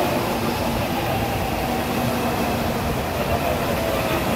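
Tokaido Shinkansen train rolling slowly along the platform as it brakes to a stop: a continuous rumble of wheels and running gear, with faint steady tones from the drive equipment.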